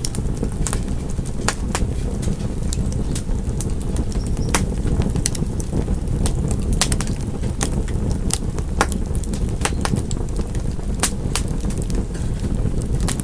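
Wood fire in a fireplace crackling: irregular sharp pops and snaps, a few each second, over a steady low rumble of the flames.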